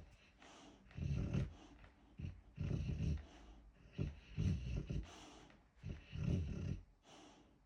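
Boxer dog snoring in its sleep: four loud snores, about one every one and a half seconds, with softer breathy sounds between them.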